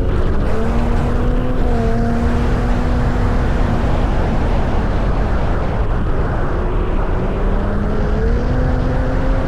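Ford F-150 Raptor's twin-turbo V6 engine driving through desert sand, under a dense rush of tyre and wind noise. The engine note holds steady at first, fades and drops in the middle, then rises again near the end.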